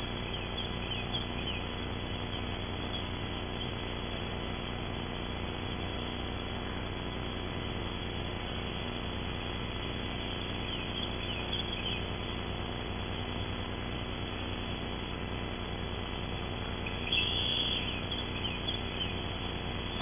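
Short series of high bird chirps, a louder run of them about seventeen seconds in, over a steady hiss and electrical hum from the outdoor camera microphone.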